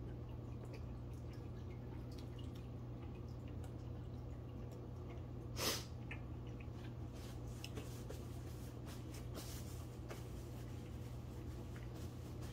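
Quiet mouth sounds of a man chewing a bite of fried chicken sandwich: small wet clicks and smacks over a steady low hum, with one short louder swish about halfway through.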